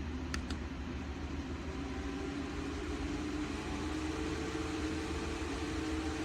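Koonie small battery-powered desk fan running steadily: a whoosh of air with a faint motor hum. Two light clicks come about half a second in.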